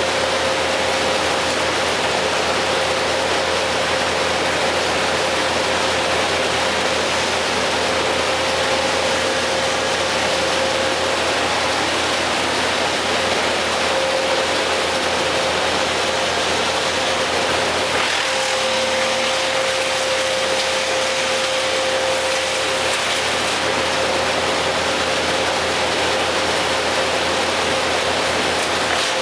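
A motor running steadily with a constant hum over an even rushing noise, with no revving or cutting.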